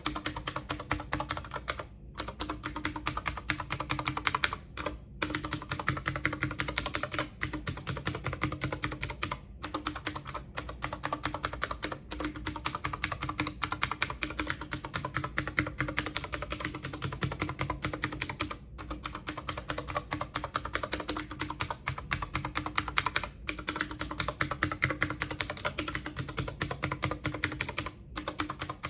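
Fast, continuous typing on a computer keyboard, a dense run of key clicks broken by a few brief pauses.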